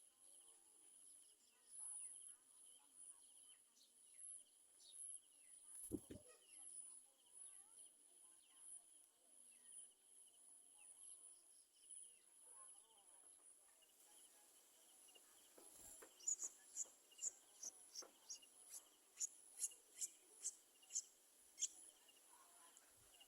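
Faint, steady high-pitched insect chorus of crickets or cicadas. About a quarter of the way in there is a single soft thump. Later comes a run of short, sharp high bird chirps, about two a second.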